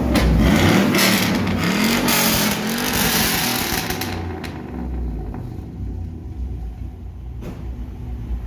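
Chevy 5.3 V8 with its muffler deleted, revved up and down a few times, loud, then dropping back to a steady idle about four seconds in.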